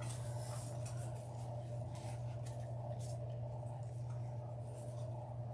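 Deco mesh and ribbon rustling and crinkling in irregular little bursts as they are fluffed by hand on a wreath, over a steady low hum.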